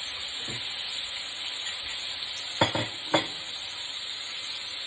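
Breaded chicken strips frying in hot vegetable oil in a frying pan, a steady sizzle. Two sharp clicks stand out about half a second apart, a little past the middle.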